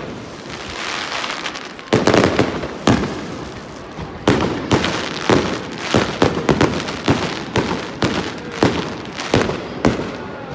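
Fireworks display: aerial shells bursting in a rapid string of sharp bangs, starting about two seconds in and coming thick and fast through the middle, with an even rush of noise between the bangs.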